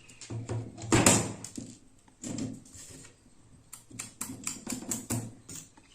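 Insulation being stripped off the end of an electrical wire: irregular scraping and sharp clicks from the tool working on the wire, with a quick run of clicks near the end.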